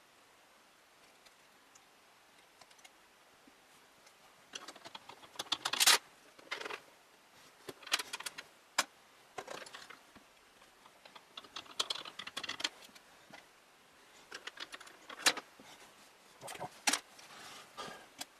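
Small hard parts being handled during a PC fan and cooler fitting: irregular clicks, clatters and short rattles, with the loudest clatter about six seconds in. The first four seconds or so are nearly empty.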